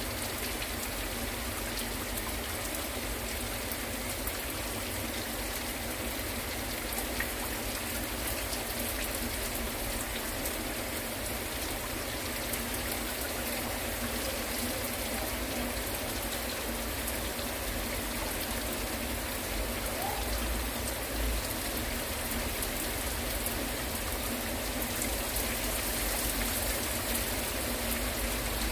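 Heavy rain falling steadily on hard surfaces, an even wash of drops that grows a little louder near the end.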